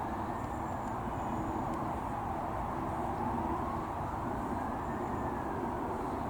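Steady distant traffic rumble, with a faint tone gliding slowly up and down twice.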